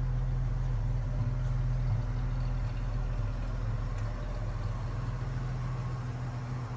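1976 Chevrolet Blazer's engine running steadily with a low, even hum.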